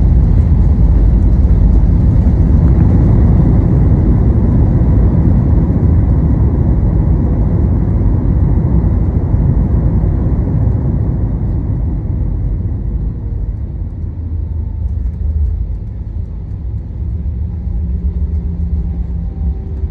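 Passenger airliner cabin noise: a loud, deep rumble of engines and airflow that slowly fades in the second half, with a few faint steady engine tones coming through near the end.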